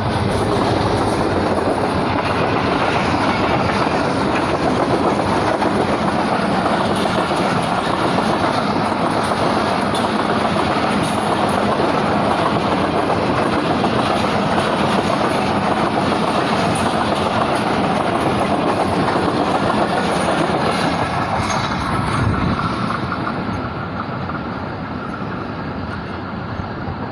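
Passenger express train running through at speed, its coach wheels clattering over the rail joints in a loud, steady rush. The noise eases off after about 22 seconds as the end of the train goes by.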